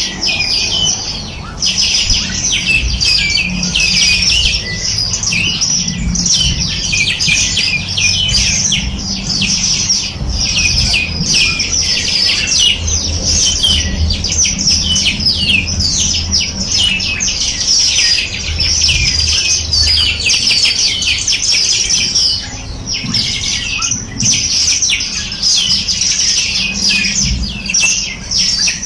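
A chorus of many small birds chirping and trilling, fast, high-pitched notes overlapping without a break.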